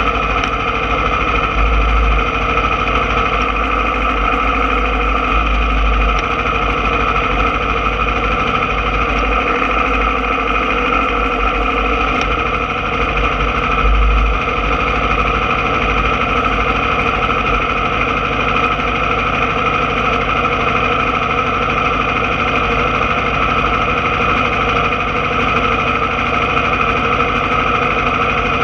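Aprilia Tuono motorcycle engine idling steadily at a constant pitch, with no revving.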